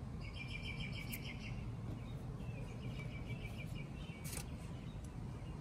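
A small bird singing a rapid, high trill twice, each about a second long, over a steady low background rumble. A light click comes near the end.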